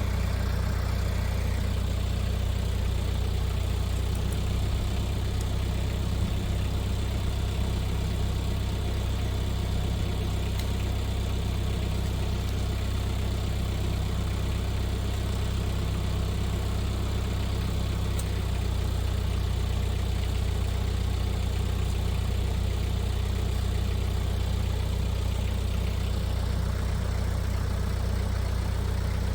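An engine idling steadily, a low, even drone with no revving.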